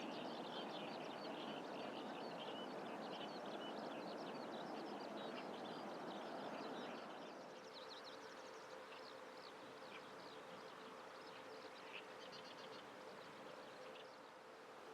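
Faint, continuous birdsong: a rapid, unbroken run of high twittering notes over a low rushing background. The rushing eases about halfway through, leaving a faint steady hum under the song.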